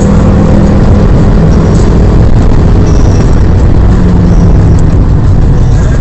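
Fiat Stilo Abarth's 2.4-litre five-cylinder engine pulling hard at track speed, heard from inside the cabin with heavy road and tyre noise. The engine note shifts slightly in pitch but stays loud and steady, and the phone microphone is overloaded.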